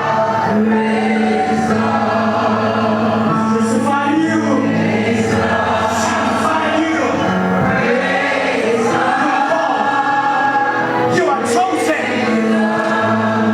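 Church congregation singing a gospel praise song together, with instrumental accompaniment.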